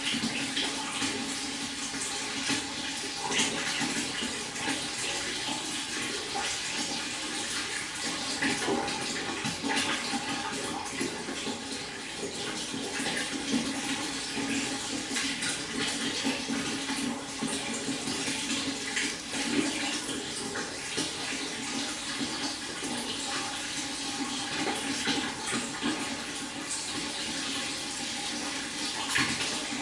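A small stream of water babbling steadily, with many small splashes and gurgles over a continuous rush.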